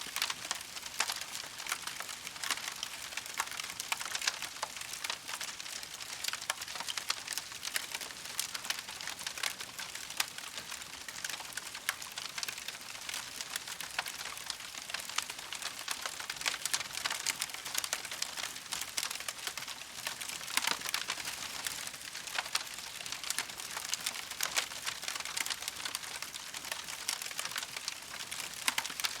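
Campfire crackling: a dense, steady stream of small pops and snaps.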